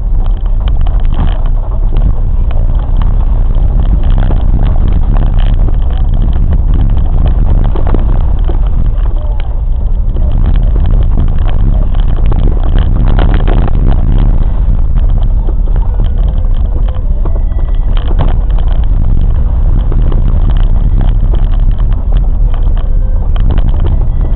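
Train running along the track: a steady heavy rumble with dense rattling and clicking.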